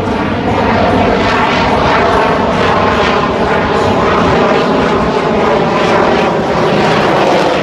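Propeller airplane engine running loud and steady as the aircraft flies.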